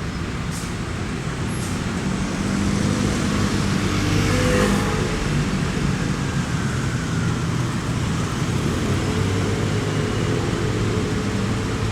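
Isuzu fire truck's engine running amid street traffic, a low steady hum that grows louder over the first few seconds and is loudest about four to five seconds in.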